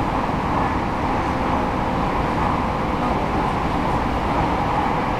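Aichi Loop Railway 2000 series electric train running along the line, heard from inside the train: a steady rumble and rush of wheels on rail.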